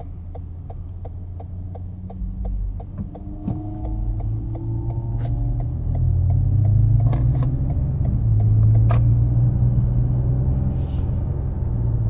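Inside the cabin of a 2014 Toyota Highlander accelerating onto a freeway: the V6 engine note rises and the low tyre and road rumble grows louder. Through the first half, the turn-signal relay clicks steadily, about three clicks a second, then stops.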